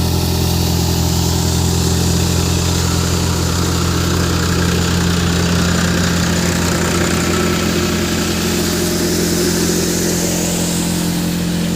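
Farmtrac tractor's diesel engine running at a steady speed, driving a chickpea thresher, with a constant drone and the hiss of the threshing drum.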